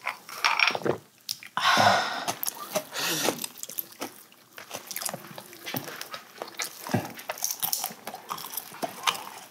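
Close-up eating sounds: biting and chewing on roast chicken, with the crisp skin crackling and tearing as a whole roasted chicken is pulled apart by hand. The loudest crackle comes about two seconds in.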